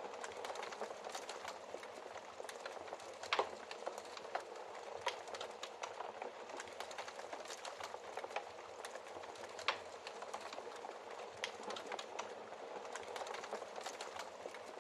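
Wood fire crackling in a fireplace: a steady hiss full of small crackles, with two louder pops, one about three seconds in and another near ten seconds.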